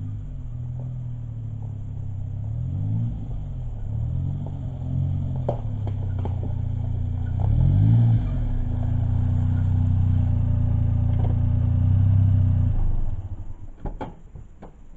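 Custom Suzuki Jimny JA12's engine running, its pitch rising and falling a few times, then switched off about thirteen seconds in; a few sharp clicks and knocks follow.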